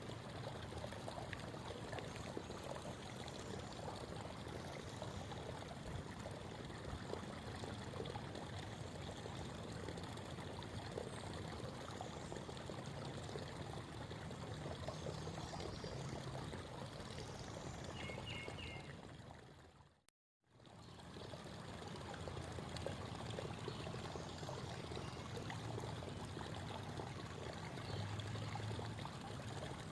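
Creek water babbling and trickling steadily. About twenty seconds in it fades out to silence for a moment, then fades back up.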